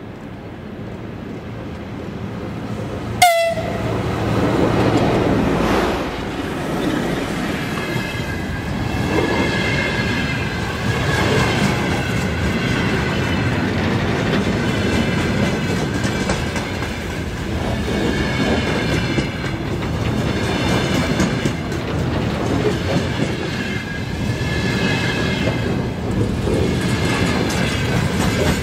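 A freight train hauled by a VL10K electric locomotive runs past, growing louder over the first few seconds, with a single sharp crack about three seconds in. The wagons then roll by with a steady rumble and clickety-clack, and a wavering high-pitched squeal rides over them.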